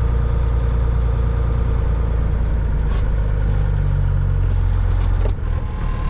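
Cat 3406E inline-six diesel of a Freightliner FLD120 semi running at low speed under load, heard from inside the cab, as the truck creeps up a snowy incline with little traction. A little after five seconds in, the low engine rumble drops off suddenly as power comes off.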